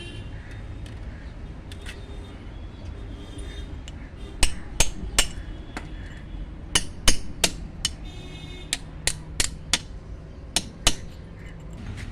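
Hammer striking a chisel into stone, shaping a stone bird water bowl: sharp metallic strikes in short runs of three to five, starting a little before halfway.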